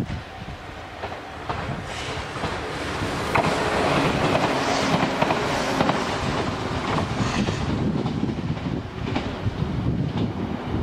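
JR West KuMoYa 443 series track-inspection electric train passing close by, its wheels clicking repeatedly on the track. The sound builds to its loudest about four to six seconds in as the train goes past.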